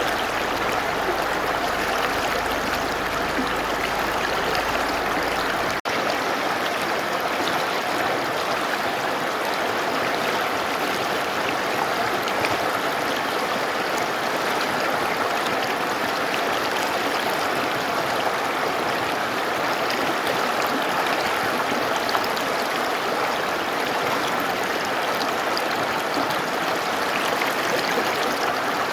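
Mountain river running steadily, a constant rush of water. A momentary dropout about six seconds in.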